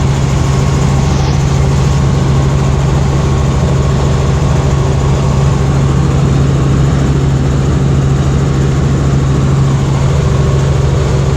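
Helicopter running with a loud, steady engine and rotor drone and a constant low hum.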